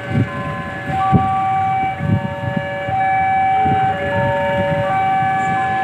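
Railway level-crossing warning alarm sounding, switching between two tones about once a second, with irregular low knocks underneath.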